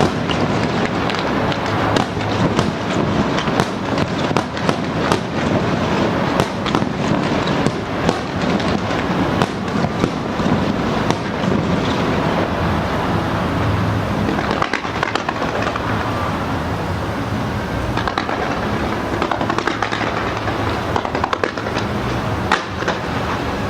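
Fireworks display: a dense, continuous run of bangs and crackles with no pause.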